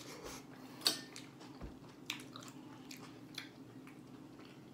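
Close-up chewing and biting into a burrito: soft wet mouth sounds with a few sharp clicks, the loudest about a second in.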